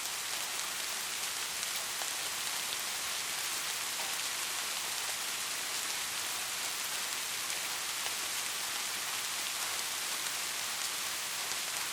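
Steady rain falling: an even, bright hiss with many faint drop ticks, with no thunder.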